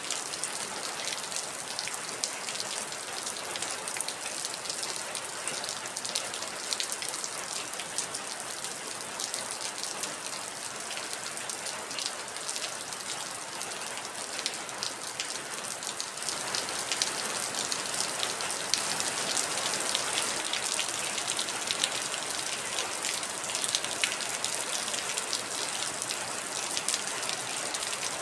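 Heavy rain falling: a steady hiss dotted with many separate drop taps. It grows a little heavier about halfway through.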